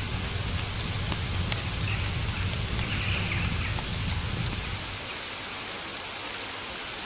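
Steady rain falling, with scattered drops ticking sharply. A low rumble underneath drops away about five seconds in.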